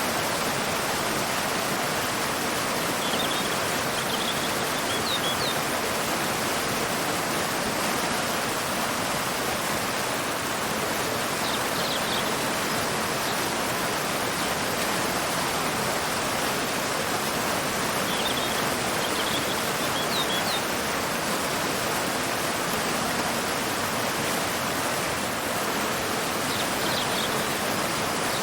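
Waterfall pouring into a river: a steady, even rush of falling water. Small groups of short, high bird chirps come through it four times, spaced several seconds apart.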